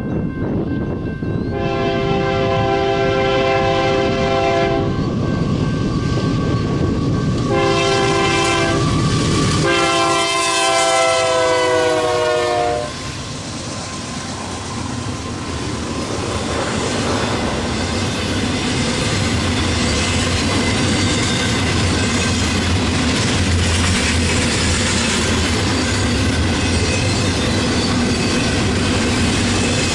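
A GE AC44CW diesel locomotive's multi-chime air horn sounds three blasts as the train approaches, over a rising engine rumble; the last blast slides down in pitch as the locomotive passes. Then the steady rumble and rail clatter of double-stack intermodal cars rolling by.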